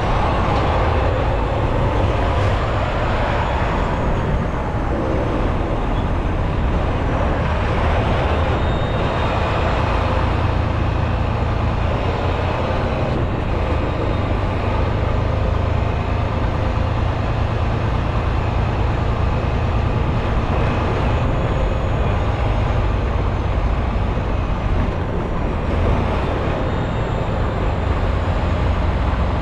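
Semi-truck running steadily on the road: a constant low engine hum under loud road noise.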